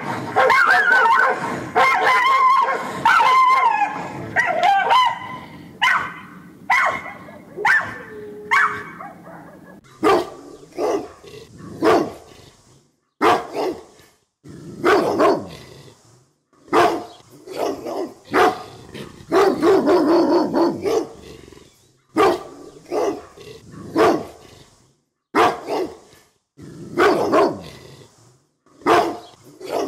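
Dogs barking. The first few seconds hold a busy run of high yips and whines; after that come separate sharp barks, about one a second.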